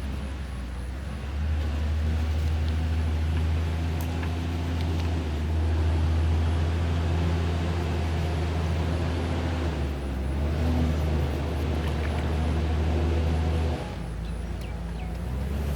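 Backhoe loader's diesel engine running with a steady low hum that grows louder and eases back in stretches of a few seconds, dropping back about two seconds before the end.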